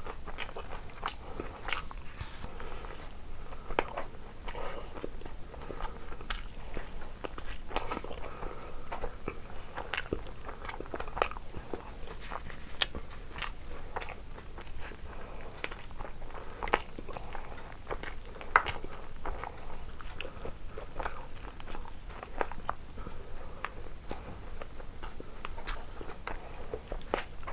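A person chewing and biting food close to the microphone: a continuous run of irregular crunches and mouth clicks.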